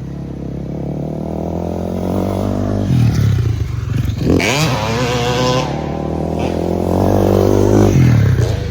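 Off-road vehicle engine running as it is ridden. It revs up and eases off around three and four-and-a-half seconds in, then holds a steady note.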